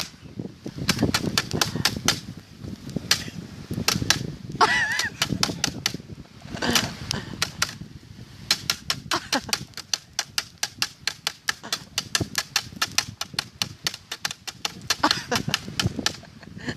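Bonfire crackling and popping: a long run of sharp pops, thickening into a fast, nearly continuous crackle about halfway through.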